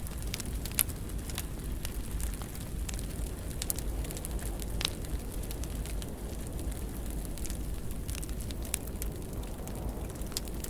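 Wood fire burning in a fireplace: a steady low rumble with frequent irregular crackles and a few sharper pops.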